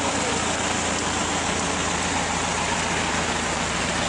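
Heavy monsoon rain falling on a wet street, a steady even hiss, with a low engine hum underneath.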